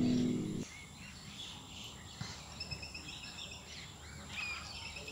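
Piano intro music that cuts off in the first second, then faint outdoor ambience with small birds chirping and a rapid, repeated high trill.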